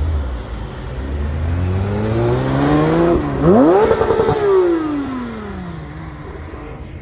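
Porsche 991 GT3 RS's naturally aspirated flat-six accelerating hard. The engine note climbs steadily, dips at a quick upshift about three seconds in, then climbs again to its loudest. After that the pitch falls and the sound fades away.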